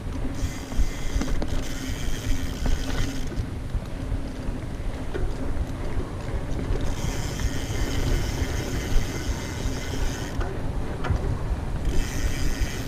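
Mountain bike riding over a dirt trail: a steady rumble of tyres and frame with scattered clicks and rattles, and a higher buzz that comes in and drops out every few seconds.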